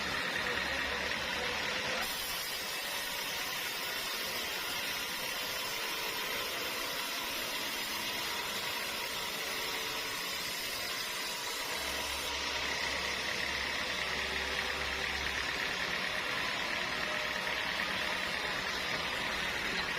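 Sawmill machinery running steadily, a constant mechanical hum with a thin whine in it. Its character changes abruptly twice, about two seconds in and again around twelve seconds.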